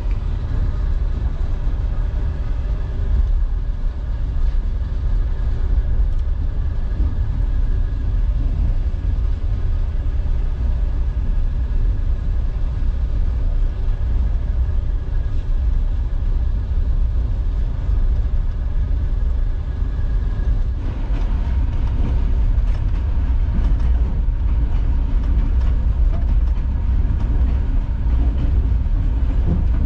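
Passenger train running on the rails: a steady low rumble with a faint steady hum of several tones over it, which changes about 21 seconds in.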